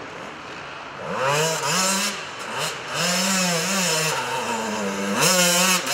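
Enduro dirt bike engine revving, its note rising and falling as the throttle is opened and closed. It gets louder about a second in and climbs sharply to its loudest near the end.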